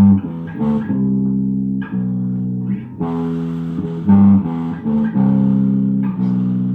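Amplified guitar playing a slow riff of long held notes, changing about once a second and repeating after about three seconds. The tone is raspy, which the player puts down to a knackered amp.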